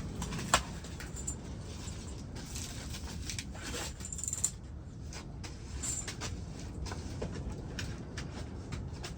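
Wood fire crackling and popping in a small wood stove as the fresh load catches: scattered irregular clicks over a steady low rumble, with a sharp pop about half a second in and another a little before the halfway point.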